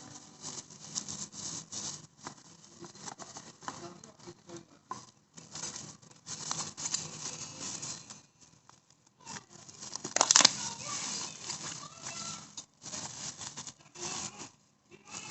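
Packaging rustling and crinkling in irregular bursts as parts are unwrapped and handled, with one sharp snap or click about ten seconds in.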